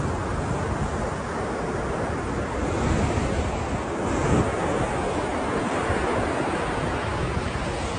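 Ocean surf: a continuous wash of breaking waves, swelling gently about three and four seconds in, with some wind noise on the microphone.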